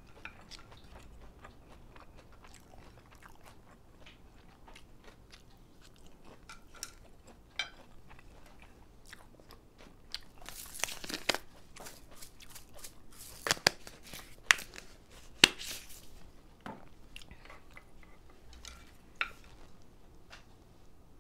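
Close-miked eating: chewing and biting, with sharp crunchy clicks that come thickest in the middle few seconds.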